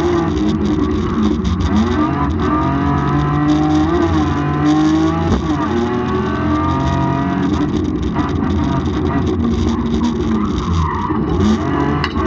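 BMW 328i race car's engine heard from inside the cabin, revving hard up the hill: its pitch climbs and falls again several times as it accelerates out of and slows into tight bends.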